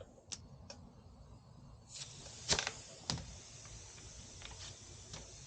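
A few light clicks, then a faint steady hiss that begins about two seconds in, with two louder knocks a little over half a second apart.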